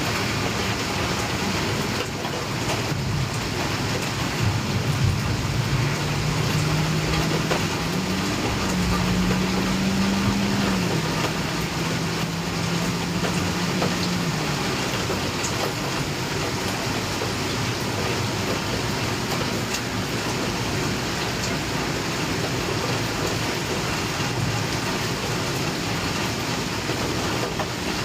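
Steady rain falling through a thunderstorm. From about four to fifteen seconds in, a low droning tone rises and falls in pitch in steps underneath the rain.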